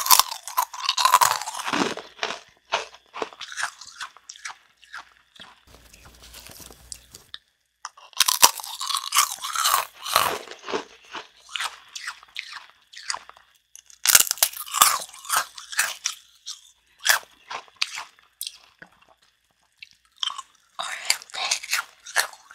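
Close-up crunching and chewing of brittle homemade dalgona, the Korean sugar-and-baking-soda honeycomb toffee, in several bursts of sharp crunches with short quiet pauses between them.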